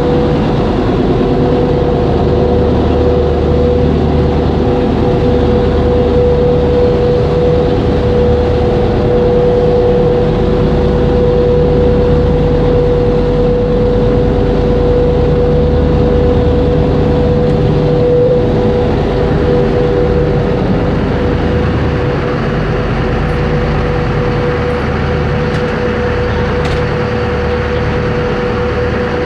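Boat engine running steadily: a loud low drone with a constant whine above it, easing off slightly about three quarters of the way through.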